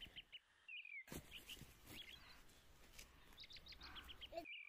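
Faint birdsong: small birds giving quick series of high chirps, with a couple of short down-slurred notes. The sound drops out briefly a few times.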